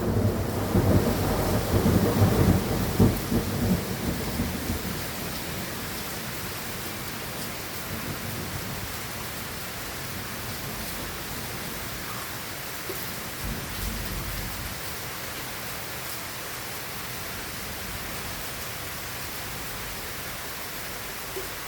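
Thunder rumbling and fading away over the first few seconds, over steady rain, then the rain falling on alone, with a brief low rumble of thunder about two-thirds of the way through.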